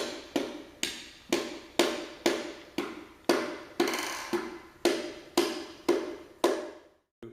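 Rubber mallet lightly tapping a piston down through a ring compressor into the cylinder bore of a 327 small-block Chevy engine, a steady run of sharp knocks about two a second that stops near the end.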